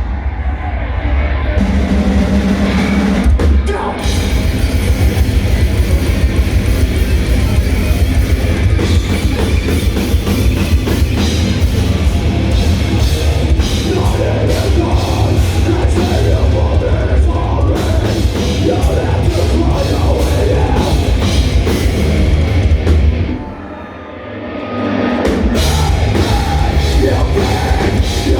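Live heavy metal band playing loud, with distorted guitars, bass and fast drumming on a drum kit. The band drops out briefly about 24 seconds in and then comes back in at full force.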